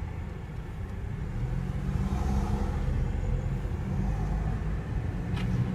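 Car engine and tyre rumble heard from inside the cabin while driving, a steady low hum that grows a little louder about a second and a half in.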